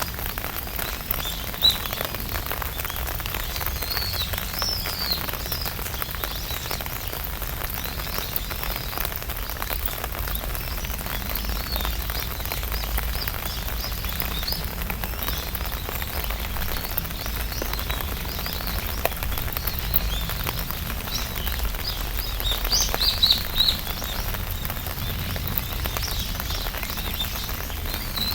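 Rain falling on an umbrella canopy: a steady wash of many small drop hits. Birds chirp briefly a few seconds in and again near the end.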